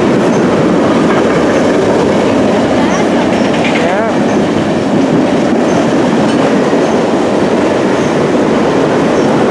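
Freight train of tank cars and covered hoppers rolling past at speed: a steady, loud rumble of steel wheels on the rails.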